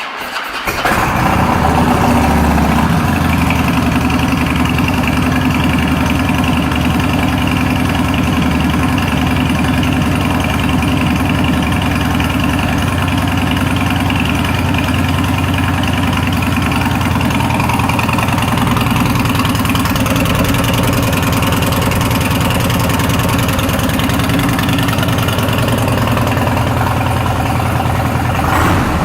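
2011 Harley-Davidson Fat Boy Lo's air-cooled V-twin engine fired up on the starter, catching at once and settling within about a second into a steady idle through Vance & Hines aftermarket pipes.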